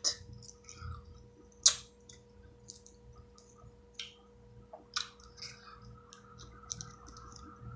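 Eating sounds from someone picking apart and eating seafood-boil crab: scattered sharp clicks and small snaps of shell and lips, the loudest a little under two seconds in.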